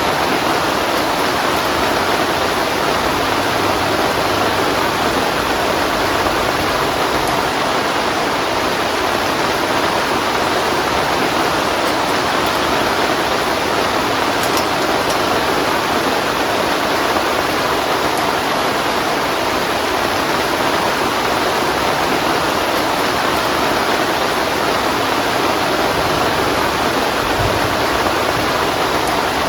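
Heavy rain pouring steadily, an even dense hiss.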